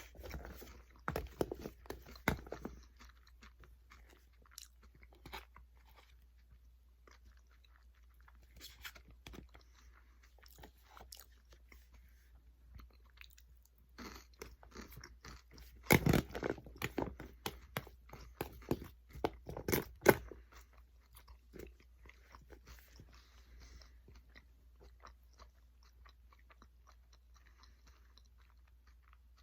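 A person chewing and biting crunchy food close to the microphone. The crunching comes in louder clusters near the start and again about two-thirds of the way through, with softer chewing between.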